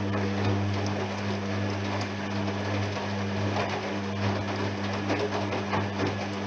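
Privileg 3020 washing machine running during its 95 °C cotton programme: a steady low hum with an uneven rattling noise over it, set in just before.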